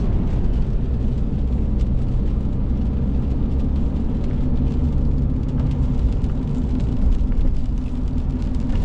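Dodge pickup truck on the move: a steady low rumble of engine and road noise, with faint scattered ticks above it.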